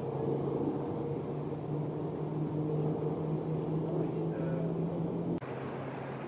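A steady low machine hum with a few held tones. It shifts abruptly about five seconds in.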